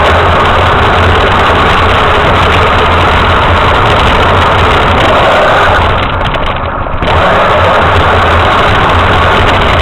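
Radio-controlled truck's motor and drivetrain running, loud and steady, with a brief drop in level about six seconds in.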